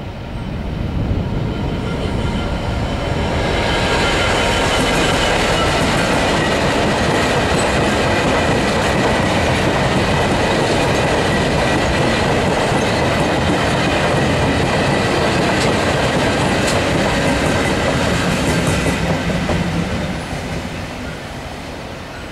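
Freightliner Class 66 diesel locomotives and their freight wagons passing close by. It builds over the first few seconds and stays loud, with wheels clicking over the rail joints, until it fades from about twenty seconds in.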